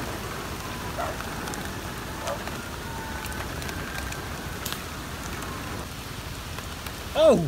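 Heavy rain pouring steadily onto grass, a pond and pavement during a tropical storm downpour.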